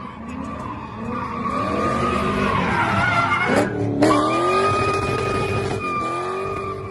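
A car doing donuts, its engine revving up and down while the tires squeal, settling into a steady high squeal over the second half.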